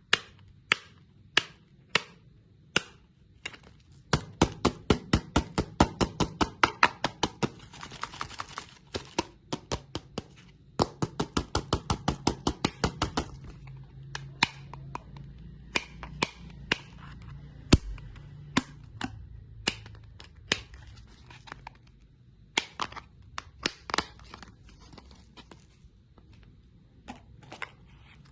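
Candy being crunched: a long run of sharp cracks, coming fast and close together, about four or five a second, through the first half and more spaced out after that.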